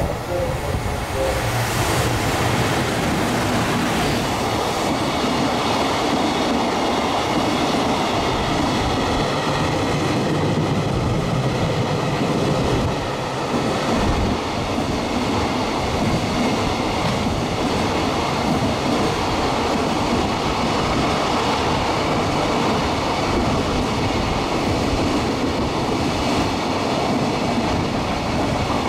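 Container freight train hauled by an EF210 electric locomotive passing through at speed: a loud, steady rush of steel wheels on rail as the long line of container wagons goes by, with a high steady ringing joining in a few seconds in.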